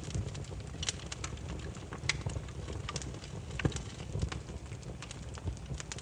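Wood fire burning, with a steady low rumble of the flames and irregular sharp crackles and pops from the burning logs.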